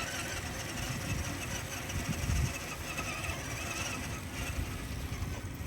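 Electric brushed motor and gear drivetrain of an RC4WD Gelande 2 scale crawler whining as it drives over dirt, the pitch rising and falling with the throttle.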